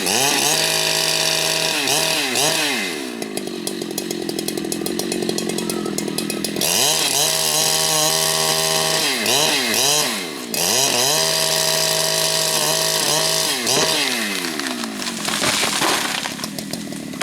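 Large Husqvarna two-stroke chainsaw running at high revs, cutting rain tree wood; its engine note drops and climbs back up a few times as the throttle is eased and opened again.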